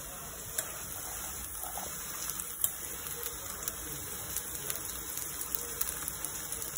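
Chopped vegetables and sweet corn kernels frying in ghee in a kadhai: a steady sizzle with scattered small ticks and pops.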